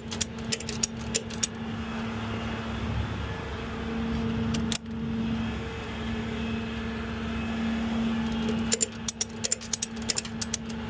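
Ratchet tie-down strap being cranked in quick clicking runs, once at the start and again near the end, securing a motorcycle on a tow truck, over the truck's engine idling with a steady hum.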